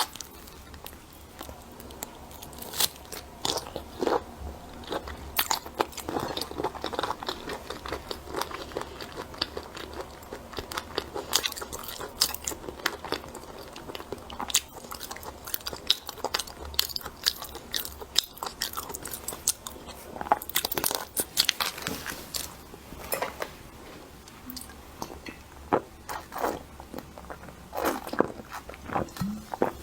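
Close-miked eating of seafood: biting, crunching and chewing, with many sharp, irregular crackles throughout.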